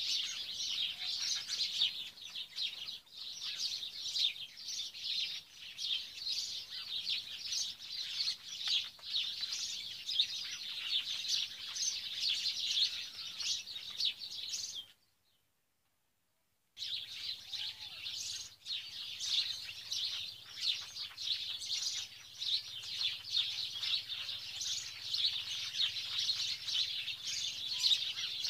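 Dense, continuous chirping of many small birds at once, broken by a sudden silence of about two seconds about halfway through.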